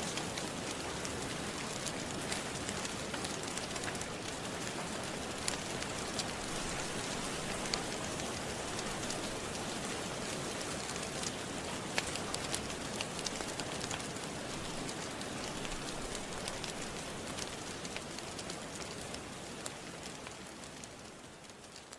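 Steady rain ambience with scattered sharp crackles from a wood fire in a fireplace, fading down over the last few seconds.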